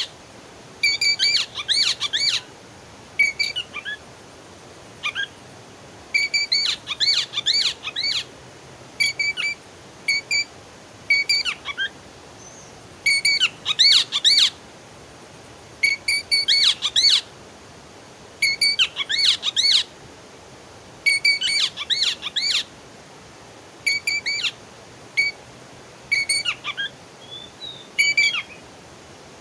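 A songbird singing, repeating short phrases of quick up-and-down notes every two to three seconds.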